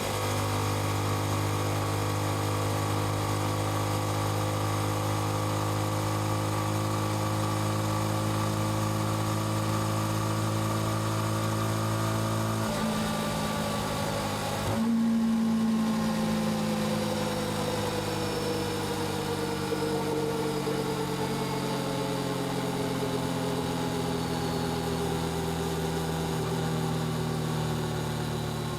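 Yamaha XSR155's single-cylinder engine and exhaust while riding: steady revs for the first half, a brief break and a louder change about halfway through, then revs falling slowly as the bike slows down.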